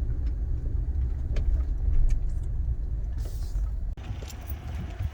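Low, steady rumble of a car on the move, heard from inside the cabin, with a few light clicks. It cuts off abruptly about four seconds in, leaving a quieter background with scattered small clicks.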